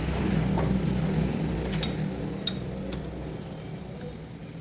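Electric motor of a workshop car lift humming steadily as the car is raised, slowly fading, with a few light metallic clinks.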